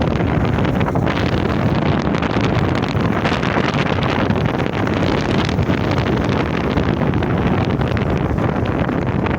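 Wind buffeting the microphone while riding a bike, a steady loud rushing noise with no clear breaks.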